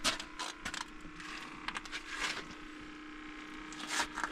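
Small ice-fishing reel being worked while playing a fish: irregular clicks and creaks, the reel dry enough that the angler wants WD-40 on it. A steady low hum runs under it.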